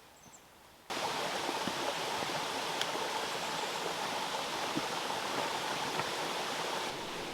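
Steady rush of a mountain stream's flowing water, cutting in suddenly about a second in.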